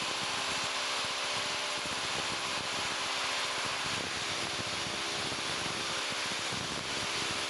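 A machine running steadily: an even hiss with a faint low hum under it, unchanging throughout.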